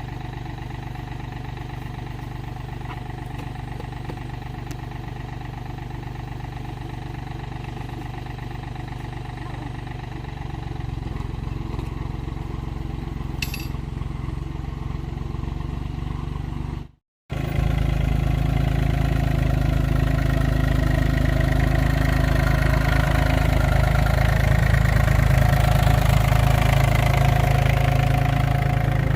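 Engine running steadily with a low rumble. It gets louder about ten seconds in, breaks off for a moment a little past halfway, then runs louder still.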